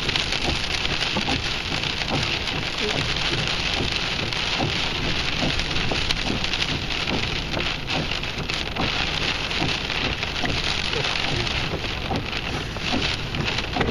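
Heavy rain in a windstorm, falling steadily with a dense crackle of drop hits.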